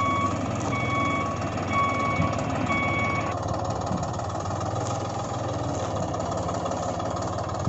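Electronic reversing beeper sounding about once a second over a steady engine rumble; the beeps stop about three seconds in while the engine sound runs on.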